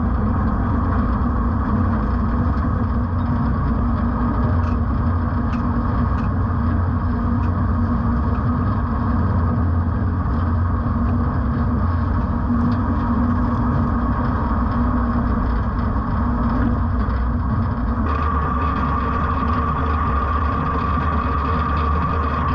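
Case IH Puma tractor engine running steadily, a continuous low drone. About 18 s in the sound shifts abruptly and a steady high whine joins the drone.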